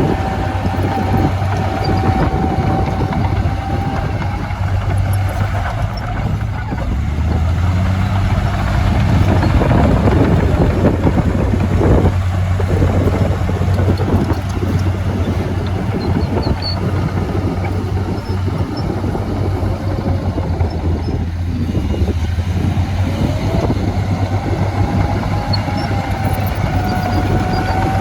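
Diesel engine of heavy earthmoving machinery working, with a dense rattle and a whine that rises and falls near the start and again near the end; the engine note climbs briefly about eight seconds in.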